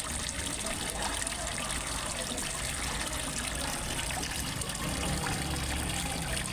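Water falling and trickling steadily into a fish pond, a continuous even splashing. A low rumble underneath grows a little about five seconds in.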